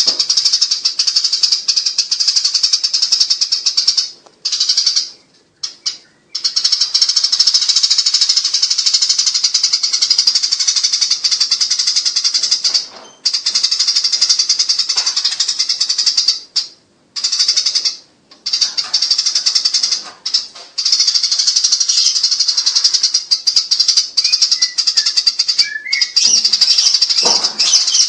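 Eurasian tree sparrows chattering in long, very rapid, high-pitched runs, the agitated trilling of sparrows fighting, broken by a few short pauses.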